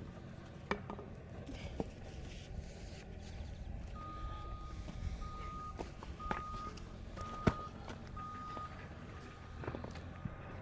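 An electronic beeper sounding a single steady tone about once a second, starting a few seconds in. Several sharp knocks come over it, the loudest about halfway.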